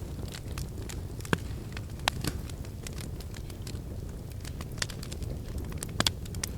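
Wood fire in a fireplace crackling, with a steady low rumble of flame and irregular sharp snaps and pops; the loudest pops come about a second in, around two seconds in, and as a pair near the end.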